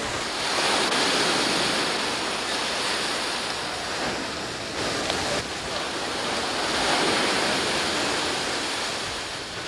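Ocean surf breaking and washing on a beach, a steady rush that swells about a second in and again about seven seconds in.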